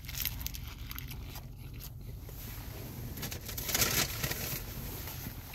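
A person chewing a big bite of a bacon burger, with faint rustles and scrapes of its paper wrapper and a louder rustle about four seconds in, over a low steady hum.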